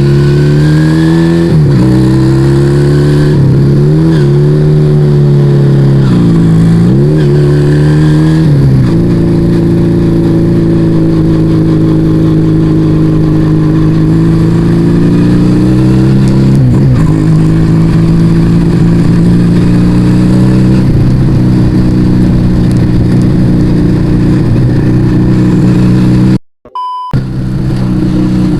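Yamaha Vega ZR motorcycle with an aftermarket Arrow exhaust, running while ridden. The engine note dips and climbs again several times in the first nine seconds and once more around 17 s, as the throttle is closed and reopened, then holds steady at cruising speed. The sound cuts out briefly near the end.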